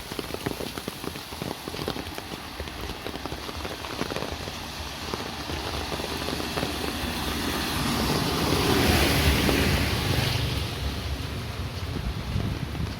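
Steady rain pattering, with a vehicle passing on the wet road: its tyre hiss and engine swell up past the middle and fade away about two seconds later.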